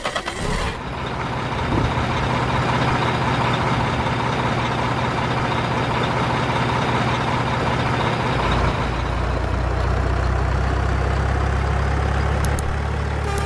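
A heavy truck engine running at a steady idle, its low rumble growing deeper and stronger about eight seconds in, with a few clicks near the start and near the end.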